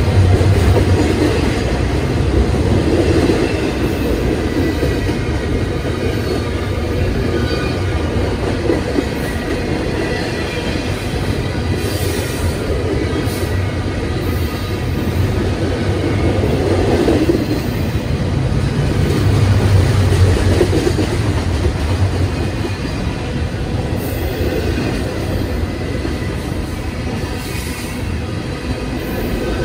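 Double-stack intermodal freight cars rolling past at speed: a loud, steady rumble of steel wheels on rail that swells and eases as each car goes by, with faint high-pitched wheel squeal over it.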